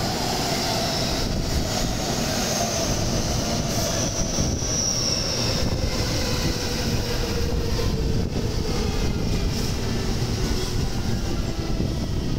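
Electric commuter train running slowly along the platform, its motor whine falling steadily in pitch as it slows, over a constant rumble of wheels on rail.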